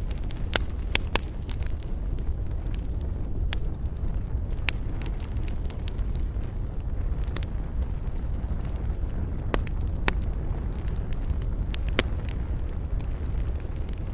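Wood fire burning in a fireplace: a steady low roar with frequent irregular sharp crackles and pops.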